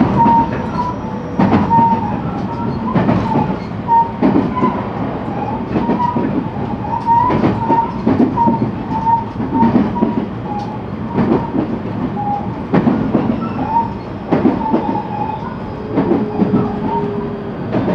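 JR West 223 series electric train running at speed: a steady rumble with sharp rail-joint clicks every second and a half or so, and a wavering squeal from the wheels. A faint high whine slowly falls in pitch, and a steadier tone joins near the end.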